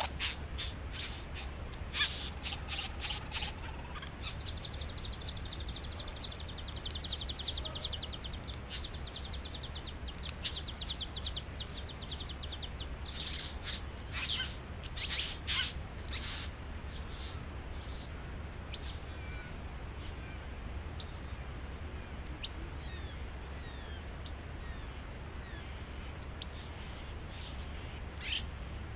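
Satin bowerbird calling: a few sharp clicking notes, then a long, fast, rattling run of clicks lasting about eight seconds, followed by scattered single notes. Fainter short bird chirps come later, over a steady low hum.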